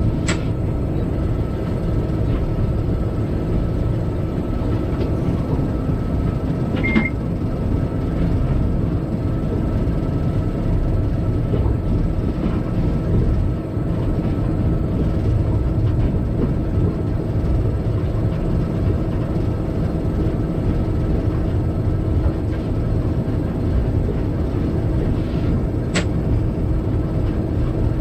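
Freight locomotive under way, heard from inside its cab: a steady low rumble of running noise. A sharp click with a brief high tone about a quarter of the way through, and another sharp click near the end.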